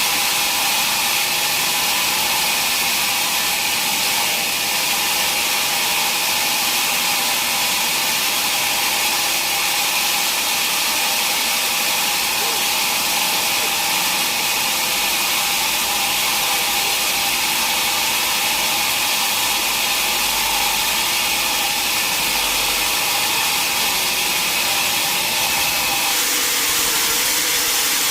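Sawmill saw running steadily: a continuous mechanical hiss with several held tones over it, shifting slightly near the end.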